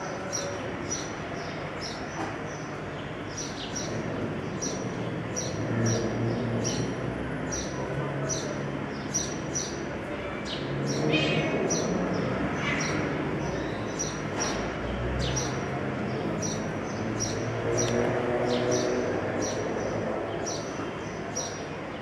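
A small bird chirping over and over, one short high chirp about two to three times a second, over a low rumbling background.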